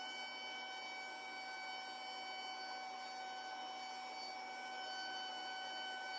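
Comagrav Digi Corsa CNC flatbed cutter running: a steady high-pitched machine whine over an air hiss, holding at one pitch without change.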